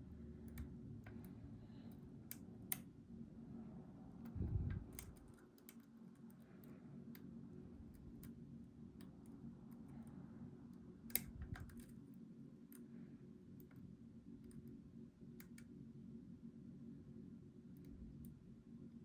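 Scattered light metallic clicks and ticks from steel lock picks working the pins of a Goal V18 lock under tension, over a steady low hum. There is a dull bump about four and a half seconds in and a sharper click about eleven seconds in.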